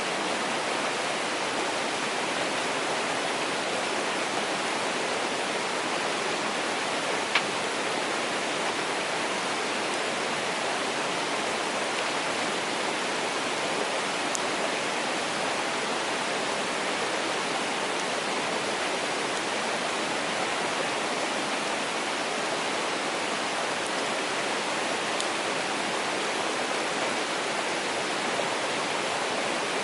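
Mountain stream rushing steadily. A wood fire pops sharply once about seven seconds in, with a couple of faint ticks later.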